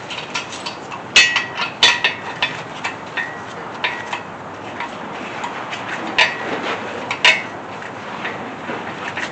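Irregular metallic clinks and taps of steel parts and hand tools being handled, with a few louder ringing clanks about one and two seconds in and again near seven seconds.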